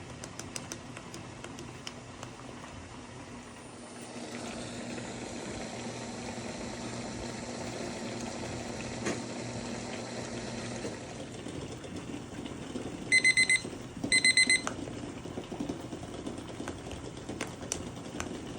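Tteokbokki simmering in a pan, a steady bubbling hiss that gets louder about four seconds in, with a few light clicks near the start. About 13 seconds in, an electronic kitchen appliance gives two short runs of high beeps, about a second apart.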